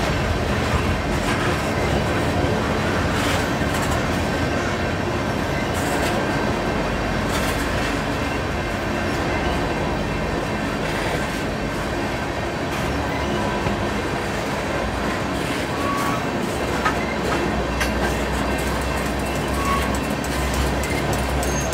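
Tank cars of a freight train rolling past on steel wheels: a steady rumble of wheels on rail, with clacks as the wheels cross rail joints.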